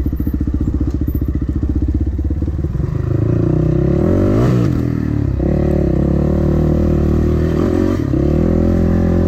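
Dirt bike engine puttering at a low steady speed, then picking up from about three seconds in, its pitch rising and falling a few times.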